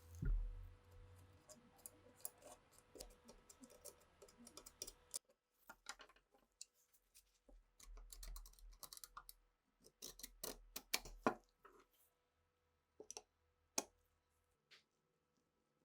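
Irregular small clicks and light knocks of old pistol parts being handled and worked on by hand, busiest in the middle and thinning out near the end.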